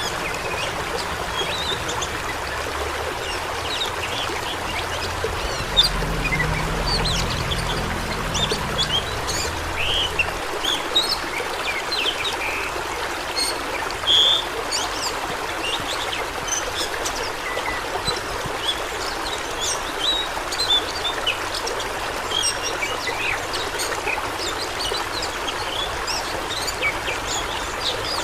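Fast-flowing water rushing and babbling steadily, with many short high-pitched sounds scattered over it. A faint low rumble comes in about six seconds in and fades about four seconds later.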